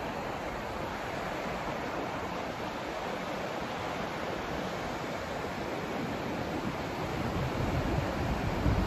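Steady white-noise hiss, an even rushing without pitch or rhythm; a deeper rumble swells into it near the end.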